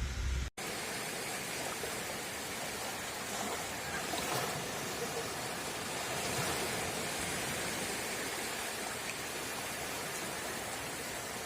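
Gentle surf washing on a beach shore, a steady rushing wash that swells slightly now and then, after a brief break about half a second in.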